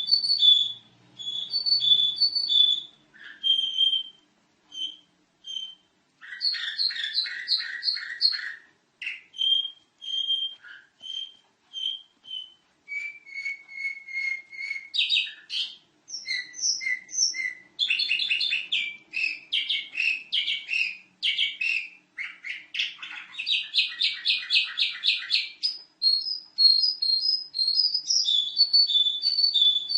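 Domestic canary singing a long, busy song: phrases of rapidly repeated high notes and fast trills, one after another with short pauses between them.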